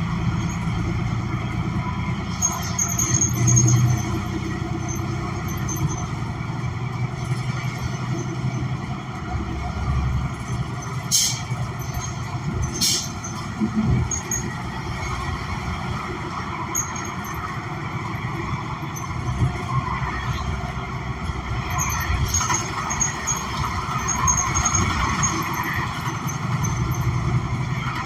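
Inside a New Flyer XN40 city bus under way: its Cummins Westport ISL G natural-gas engine and Allison B400R transmission running, with steady road and tyre noise. Two sharp clicks sound near the middle.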